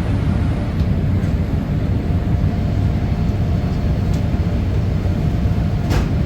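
Steady in-flight cabin noise of a Boeing 787-8 airliner: an even rumble of engines and airflow, strongest in the low range, with a faint steady hum. A single short click comes near the end.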